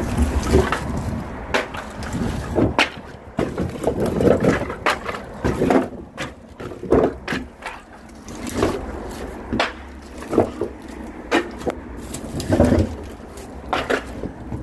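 Split oak firewood logs being handled and stacked, wood knocking against wood in irregular clacks about once a second.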